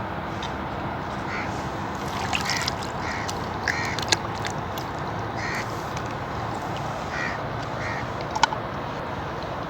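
Birds giving about seven short, separate calls over a steady outdoor hiss, with two sharp clicks, one near the middle and one near the end.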